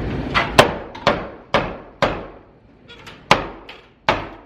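Hammer blows knocking loose wooden wall planks: about five sharp knocks in quick succession, a pause, then two more, each with a short echo.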